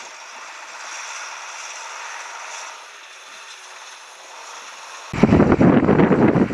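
A steady hiss, then, about five seconds in, loud gusting wind buffeting the microphone starts abruptly.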